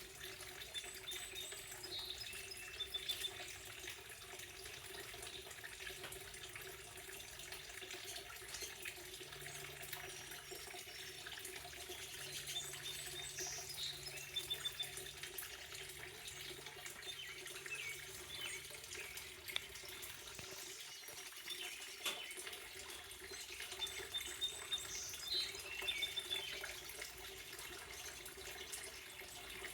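Steady running water, with small birds chirping and trilling in short bursts several times over it.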